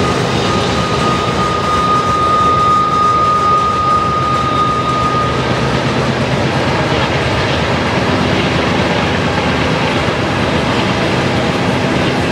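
Freight train of covered hopper cars rolling past, a steady rumble of wheels on rail. A thin, steady high squeal sounds over it for about the first five seconds, then stops.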